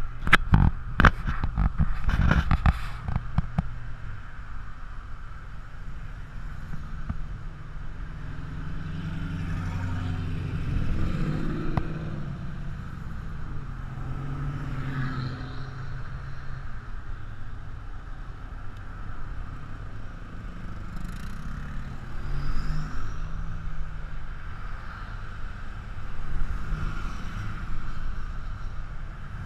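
A few sharp knocks and clatter in the first three seconds, then several cars drive past one after another, among them turbocharged Buick Grand Nationals with their 3.8-litre turbo V6 engines, each engine swelling and fading as it passes.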